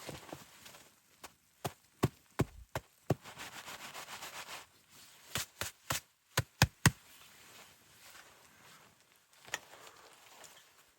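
A series of sharp knocks in two quick runs of five or six, with a second of rustling or scraping between them and one last knock later.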